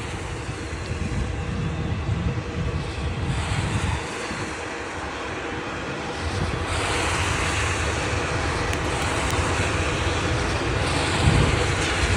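Freight cars of a long CSX train rolling past and picking up speed: a steady low rumble and rush of wheels on rail, growing louder about seven seconds in.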